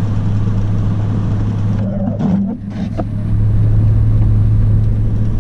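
In-cab engine drone and road noise of a Toyota Tundra pickup climbing a snowy hill. The drone grows a little louder about halfway through.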